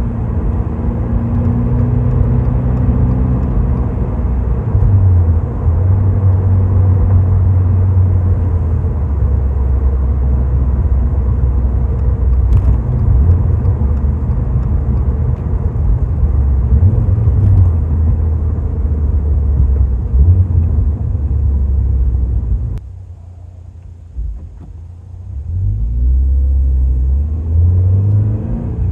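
2023 Toyota GR86's 2.4-litre flat-four running through a Fujitsubo A-R catback exhaust while driving, its low note rising and falling in pitch as the revs change. About 23 seconds in the exhaust note drops off sharply for a couple of seconds, then builds again.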